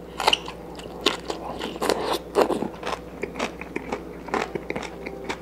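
A person chewing and crunching a mouthful of Chinese broccoli, with irregular crisp crunches several times a second.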